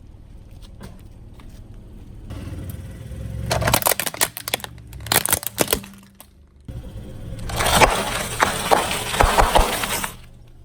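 Car tyre rolling over and crushing brittle objects: a cluster of sharp cracks and crunches about four seconds in, then a longer, dense crunching from about seven to ten seconds in, over a steady low rumble.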